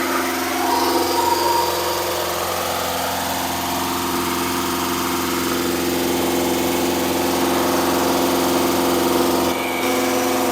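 Engine running steadily during a new camshaft's break-in run, its speed rising over the first few seconds and then holding. It dips briefly near the end.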